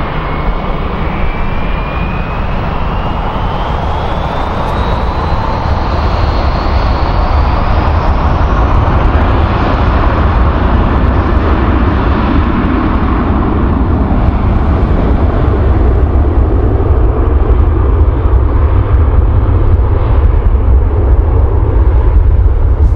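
Jet airliner engines running at high power, with a thin whine rising in pitch over the first several seconds while the engine noise grows steadily louder.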